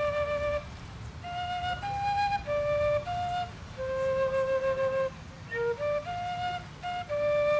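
Slow solo wind-instrument melody, one held note at a time, with short breaks between phrases.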